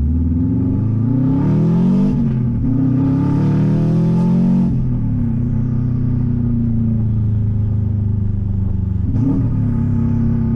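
Turbocharged Subaru flat-four running straight through an open 3-inch catless downpipe with no muffler, heard from inside the car. It climbs in pitch under acceleration, breaks briefly about two seconds in, climbs again, then settles to a steady lower drone while cruising, with a short rev rise and fall near the end.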